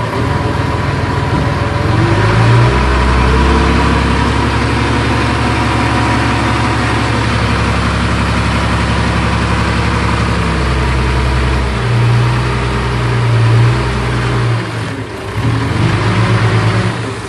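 Heavy earthmoving machine's diesel engine working, revving up about two seconds in and holding high. It eases briefly near the end, then picks up again.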